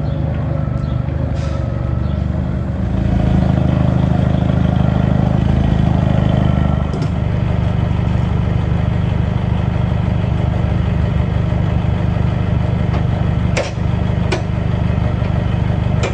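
An engine running steadily, growing louder for a few seconds about three seconds in, with a few short metallic clanks.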